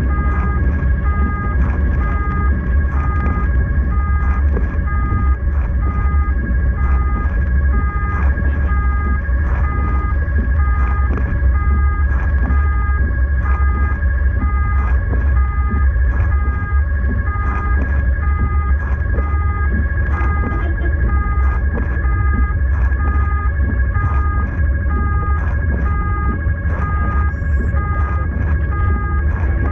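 Rescue vehicle's siren sounding continuously, a steady tone with a second tone pulsing on and off rapidly, over the low rumble of the vehicle's engine and road noise.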